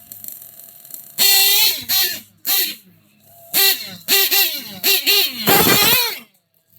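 Ielasi 28-7 horn with a boat pipe blown in a rhythmic tune: about eight loud blasts of one pitch, short and long, each sagging in pitch as it cuts off. The last blast, near the end, is the longest and has a low rumble under it.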